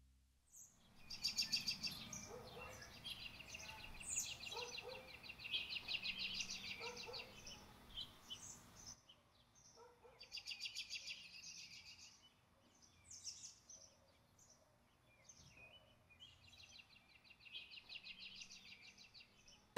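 Faint birdsong: several birds chirping and singing rapid trills.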